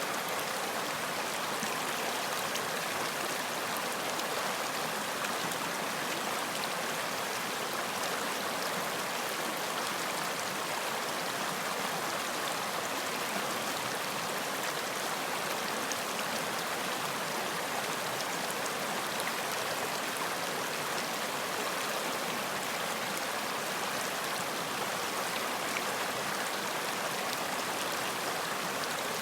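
Running water of a stream flowing steadily over rocks, an even rushing with fine splashing detail.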